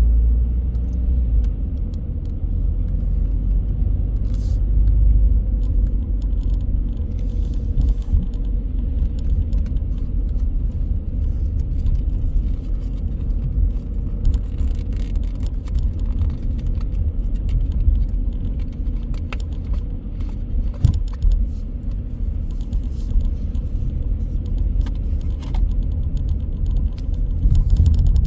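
A car driving on city streets: a steady low rumble of road and engine noise, with a faint steady hum and scattered faint clicks and ticks.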